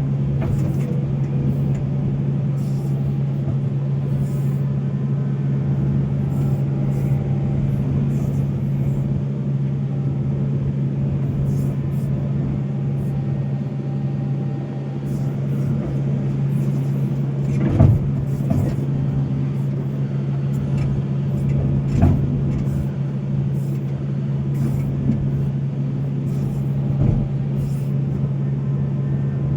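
Volvo excavator's diesel engine running steadily at working revs, with two sharp knocks a few seconds apart in the second half.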